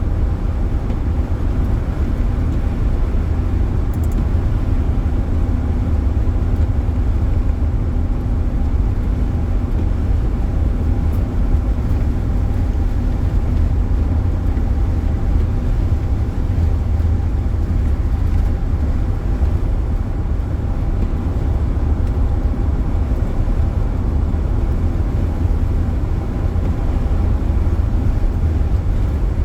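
Steady low rumble of a car driving, heard from inside the cabin, with a faint even hum over it.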